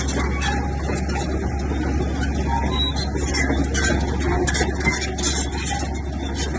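A bulldozer's diesel engine running steadily with a deep rumble, over irregular rattling and clattering.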